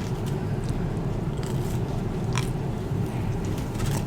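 A person chewing and biting food with a few sharp, crisp clicks, over a steady low hum.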